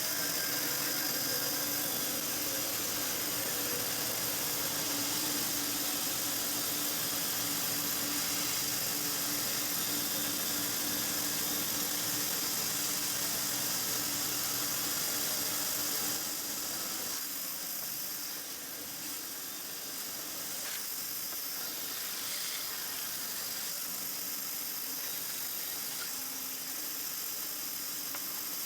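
A woodworking power tool running steadily with a hissing, whirring noise and a steady hum. The hum stops about halfway through and the noise drops a little and changes.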